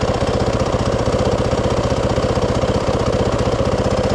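Can-Am Maverick UTV engine idling with a steady, even pulse and no change in speed.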